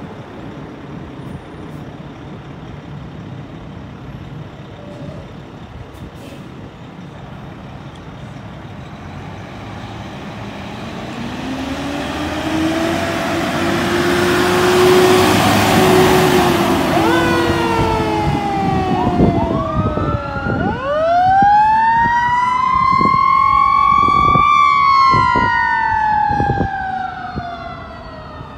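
Fire engine approaching with engine and road noise building, first a steady low tone, then its siren wailing in overlapping rising and falling sweeps as it passes. The siren fades near the end.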